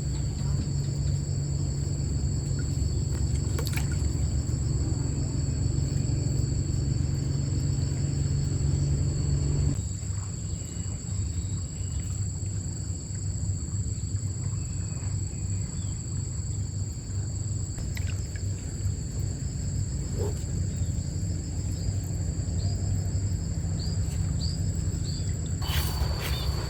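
Outdoor stream-side ambience: a steady low rush of water, with insects droning at two steady high pitches and a few faint bird chirps. The low rush drops in level about ten seconds in. A run of sharp crackling clicks starts near the end.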